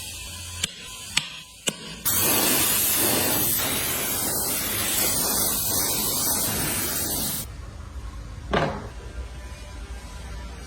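A few light clicks, then a loud steady spraying hiss that starts abruptly about two seconds in and cuts off sharply about five seconds later. A single short knock follows near the end.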